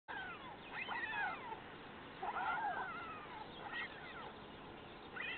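White stork chicks making their mewing begging calls. Several thin, cat-like notes overlap, mostly falling in pitch, in a few clusters.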